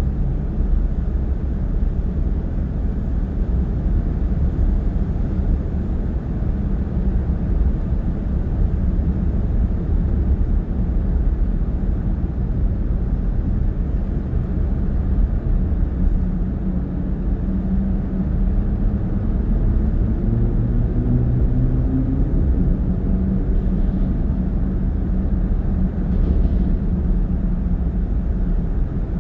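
A car driving at road speed, heard from inside the cabin: a steady low rumble of tyre and road noise. About two-thirds of the way through, a faint engine note rises in pitch as the car speeds up.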